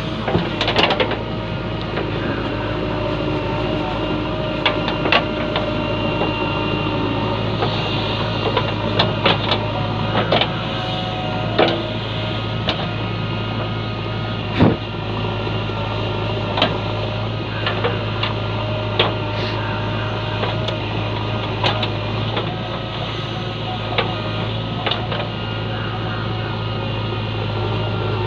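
A diesel engine of a tractor or backhoe loader running steadily, with scattered knocks and clanks of loading work; the sharpest knock comes about halfway through.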